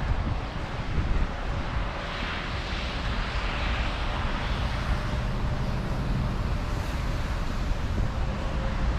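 Wind buffeting the microphone in a snowstorm, with a steady distant rumble underneath.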